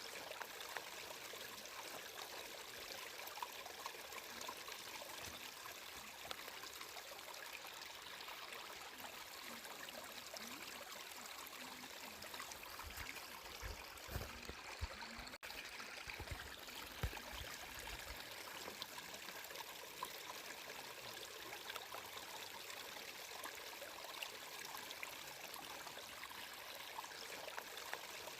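Stream water flowing steadily with a light trickle. A few low rumbles come through about midway, and the sound drops out for an instant around the middle.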